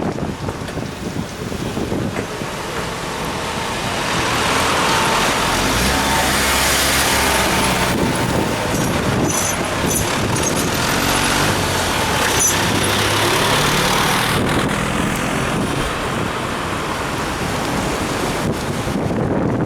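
Road traffic: a large motor vehicle passes close by. Its engine hum and tyre noise swell up about four seconds in and fade out about ten seconds later, with a few brief high squeaks in the middle. Wind buffets the microphone before and after.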